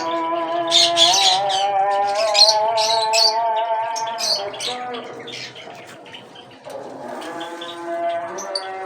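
Cage birds chirping and squawking over a man's long, drawn-out chanted voice, the Islamic call to prayer. The chanted note fades out midway and comes back near the end.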